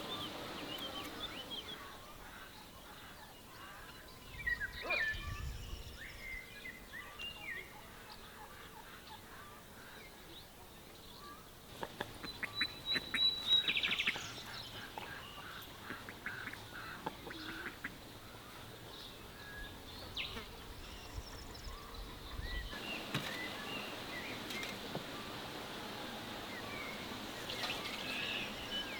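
Rural outdoor ambience with scattered calls of domestic fowl, in short irregular bursts, with a few sharp clicks and knocks in between. Calls and clicks bunch up briefly in the middle.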